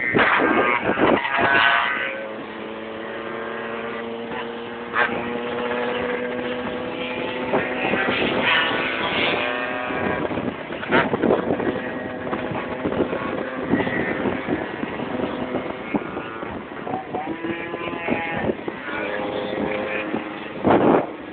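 Motorcycle engines running at a group ride meetup, one holding a steady note that slowly rises in pitch, broken by a few short loud sounds near the start and end.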